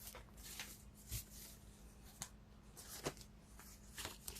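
Faint scattered rustles and light clicks of tarot cards being handled, over a low steady hum.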